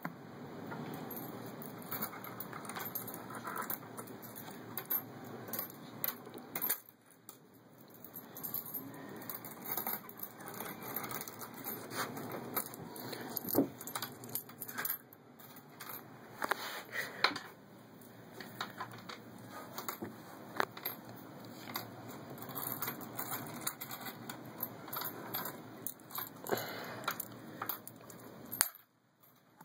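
Pennies clinking and dropping into a small floating test boat: many light, irregular metallic clicks over a steady background hiss.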